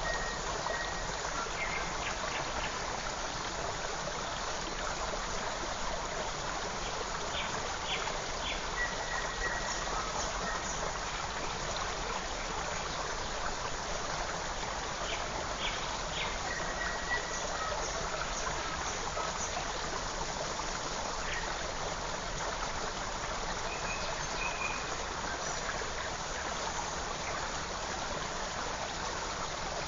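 Forest stream flowing steadily with an even rush of water, while small birds give short chirps and brief whistled notes now and then over it.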